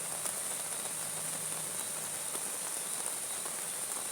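Steady rain falling, with scattered small drop ticks and a constant high-pitched whine above the hiss.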